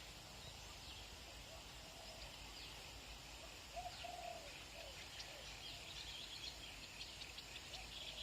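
Several birds chirping with many quick high notes, faint, over a steady background of countryside ambience; a few short, lower calls come about four seconds in and again near the end.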